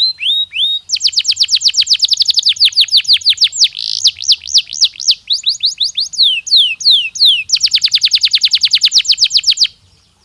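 Domestic canary singing: a fast run of repeated down-sweeping notes, changing partway through to slower, wider sweeps, then a very rapid trill that breaks off near the end.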